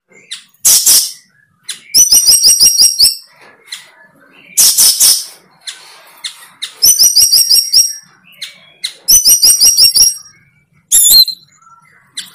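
A bird calling close by: repeated runs of rapid high chirps, about eight to ten notes a second, alternating with short harsh rasping calls.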